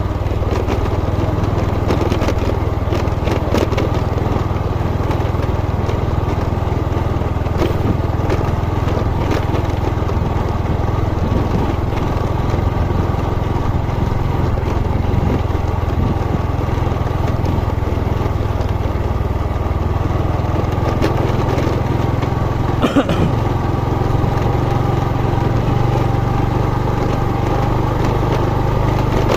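Motorcycle engine running steadily at riding speed, with one short knock about three-quarters of the way through.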